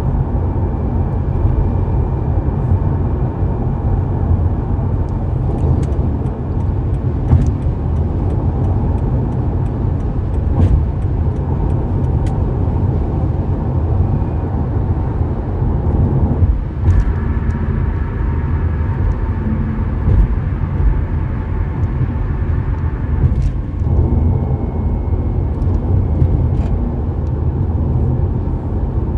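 Car driving on the road: a steady low rumble of tyres and engine, with a few faint clicks now and then.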